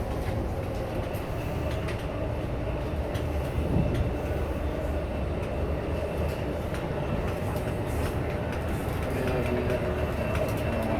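Running noise of a moving Amtrak passenger train heard from inside the car: a steady low rumble of wheels on rail with light rattles, and a single thump about four seconds in.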